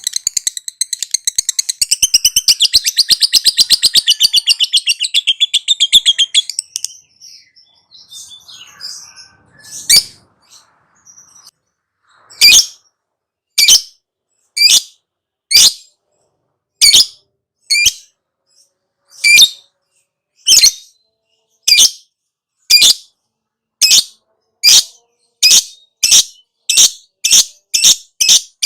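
Lovebird chattering in a fast, dense run for about six seconds, then after a short lull giving single sharp, high calls about once a second that come faster toward the end.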